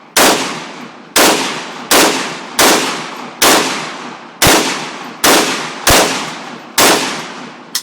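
AK-47 rifle (7.62×39 mm) fired in slow, single shots, about ten of them, roughly one a second, each sharp crack followed by a long rolling echo.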